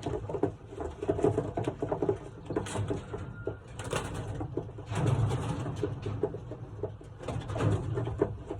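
Racing pigeons cooing in low swells, strongest about five seconds in and again near the end, over scuffling and rustling.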